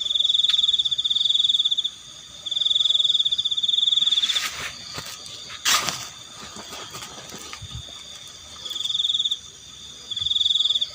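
Night chorus of crickets trilling in high, pulsing bursts of a second or two with short pauses, with frogs calling underneath. A sharp knock or crack sounds once about six seconds in.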